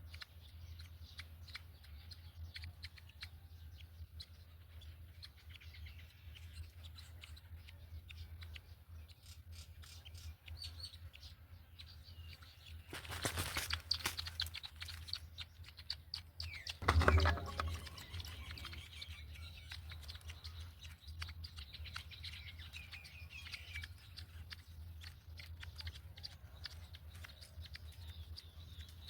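Faint bird chirps and clicks over a steady low hum. About 13 seconds in there is a brief noisy rustle, and at about 17 seconds a louder call that falls in pitch.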